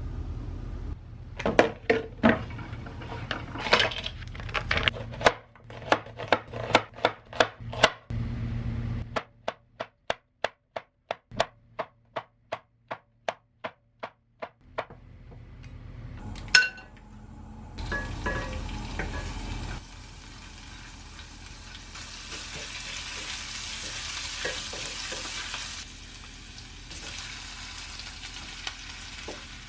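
Cooking sounds: utensils and dishes clattering and knocking, then a run of even knocks about two a second. After a sharp click, oil sizzles in a frying pan through the last ten seconds or so.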